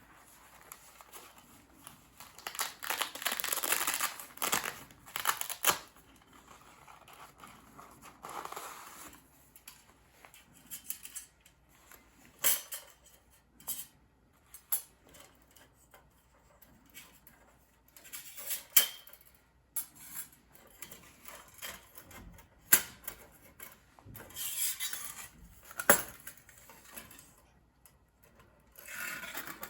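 Thin titanium plates of a hinged mini fire stand being handled. Bursts of rustling come between scattered sharp metallic clicks and clinks.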